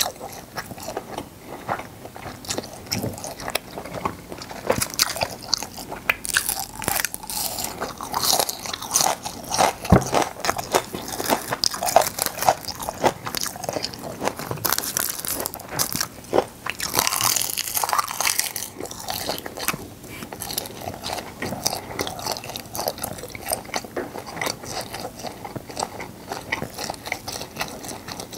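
Close-miked chewing and biting of gwamegi (half-dried fish) wrapped in seaweed: wet mouth noises with many small irregular clicks and crackles, busiest through the middle.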